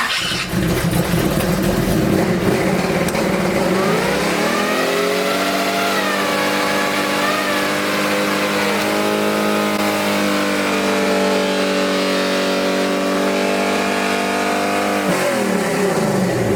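Chevy C10 truck engine starting and running for its camshaft break-in. About four seconds in the revs rise and are held high, wavering a little, then drop back near the end.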